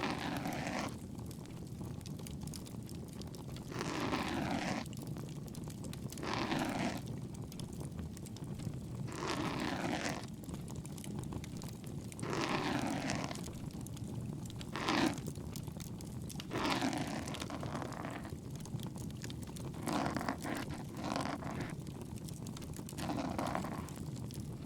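Ear-cleaning ASMR: a bamboo-style ear pick scraping and rustling inside the ear, in slow strokes of about a second every two to three seconds, over a steady low crackle of a bonfire.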